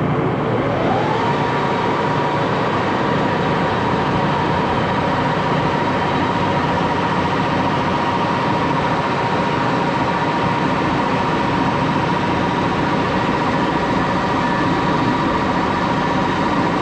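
Axelson lathe running, its whine rising in pitch in the first second as it comes up to a higher speed and then holding steady over a constant rushing machine noise.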